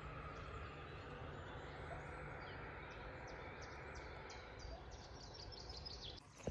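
Small birds chirping over a low, steady background rumble, the chirps coming more often over the last few seconds.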